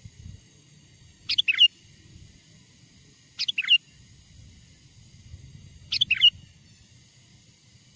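Sooty-headed bulbul (kutilang) calling: three short bursts of quick falling notes, about two and a half seconds apart.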